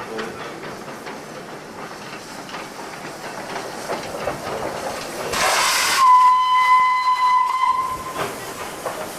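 Steam locomotive running, its whistle opening with a rush of steam hiss about five seconds in, then sounding one steady note for about two seconds.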